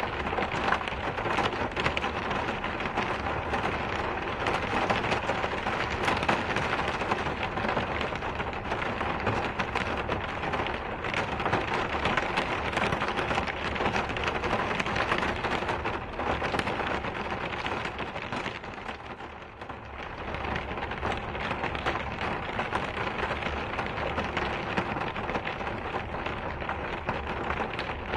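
Steady rain falling, an even hiss full of individual drop impacts, easing briefly about two-thirds of the way through.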